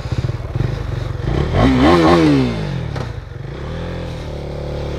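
KTM Duke 390's single-cylinder engine running at idle, revved once, the pitch climbing to a peak about two seconds in and falling back, then running steadily at low revs.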